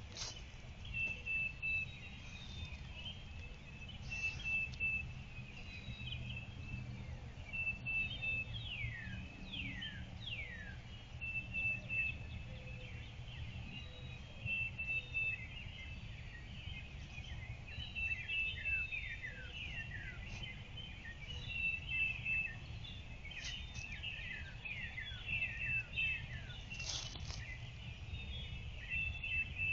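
Songbirds singing in woodland: a short trill repeats every two to three seconds, with many quick, falling whistled notes between, over a steady low outdoor rumble.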